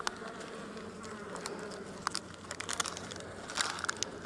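Honeybees buzzing steadily at an open hive, with scattered light clicks and crinkles that come more often in the second half.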